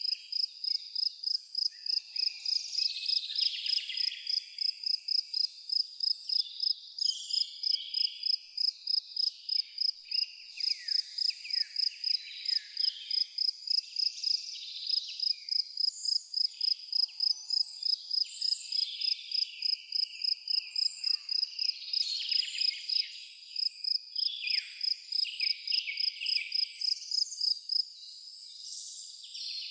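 A cricket chirping steadily at one high pitch, about three chirps a second, pausing briefly near the end, with birds singing varied chirps and whistles alongside.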